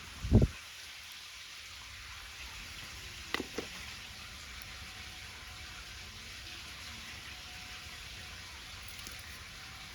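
A wood bonfire crackling with a steady hiss. A loud low thump comes about a second in, and two light knocks follow at about three and a half seconds.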